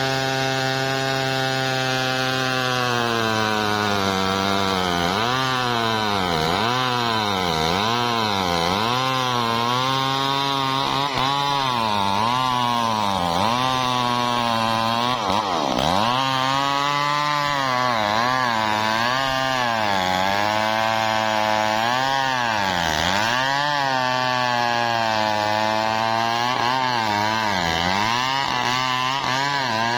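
Two-stroke chainsaw running steadily at first. From about three seconds in, its engine speed keeps dropping and recovering every second or two as the chain works through wood, with a few deep dips along the way.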